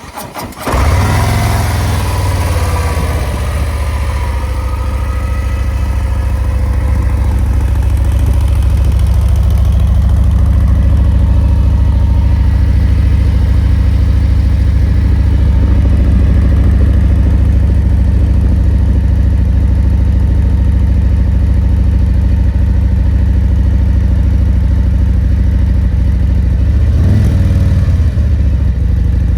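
2024 Harley-Davidson Road Glide's V-twin engine through its stock mufflers, starting up just under a second in, its speed falling over the next couple of seconds, then idling steadily with a deep, even exhaust note.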